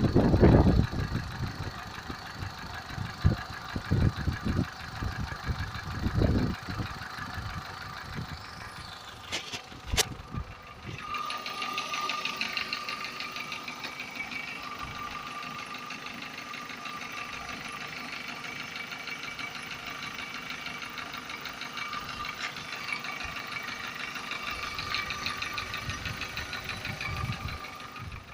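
Car engine running with a fast, even knock, with new connecting-rod bearings fitted; the owner puts the knock down to the crank and con-rod assembly, cause undetermined. Irregular heavy low thumps fill the first ten seconds, a sharp click comes at about ten seconds, and the engine then runs steadily.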